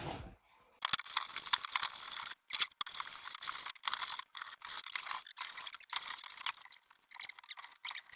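Cloth rag wiped hard over old wooden floorboards: rapid, scratchy rubbing strokes, broken by a few brief pauses.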